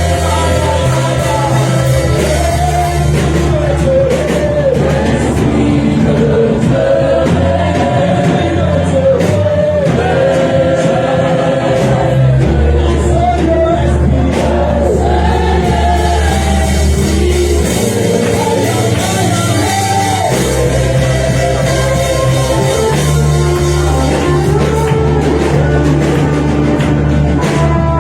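Live gospel worship music: a group of voices singing together over a band, with a bass line holding long notes.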